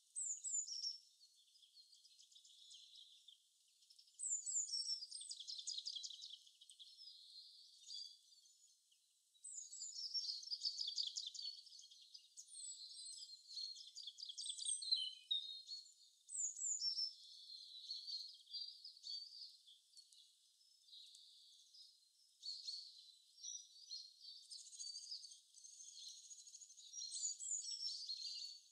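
Birdsong: high, thin chirps and rapid trills that come and go in bursts, with nothing lower beneath them.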